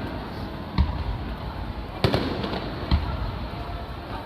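Fireworks shells bursting overhead at a large display: three sharp bangs about a second apart, the loudest about two seconds in, which trails off in a rumble.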